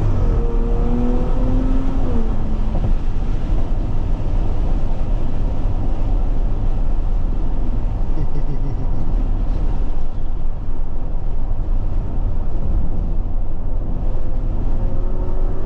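Supercharged Audi Q7 V6 with a muffler delete accelerating hard, its pitch rising for about two seconds and then dropping at an upshift. It settles into steady engine and road noise, and the pitch starts rising again near the end.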